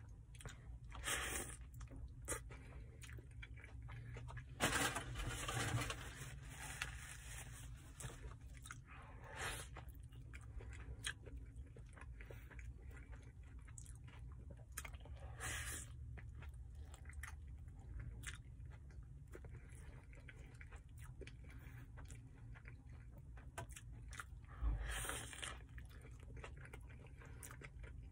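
Close-up chewing of a steak burrito: soft wet mouth sounds and small crunches throughout, with louder bites about a second in, around five seconds, and again near the end. A low steady hum runs underneath.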